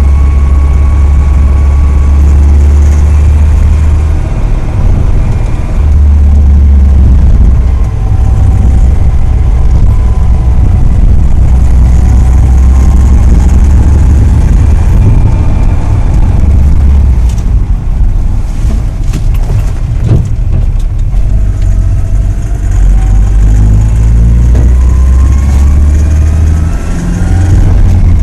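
Car engine running, with a heavy low rumble that overloads the phone's microphone and a few sharp clicks past the middle. The owner suspects a rattling timing chain.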